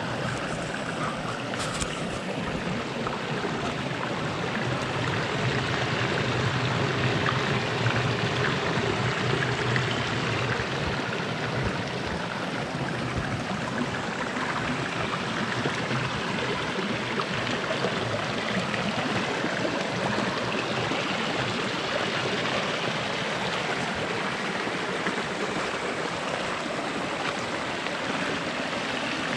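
Runoff from heavy rain flowing over a small rock waterfall in a normally dry creek bed: a steady rush of running water.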